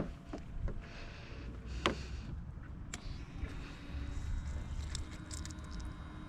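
Wind buffeting the microphone as a low, uneven rumble, with a few sharp clicks and knocks.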